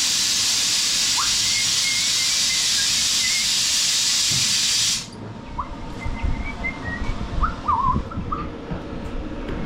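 Steady hiss of the mower lift being let down, cutting off suddenly about halfway through; then scattered clunks and small squeaks as it comes to rest.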